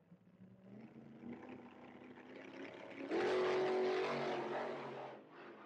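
Car engine sound effect: an engine running and slowly getting louder, then a loud rev about three seconds in that fades away over the next two seconds.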